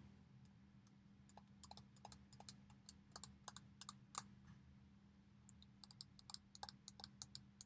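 Fingernails tapping and clicking on the Bakelite of a vintage evening bag: a run of light, irregular, faint clicks, thinning out for a moment in the middle.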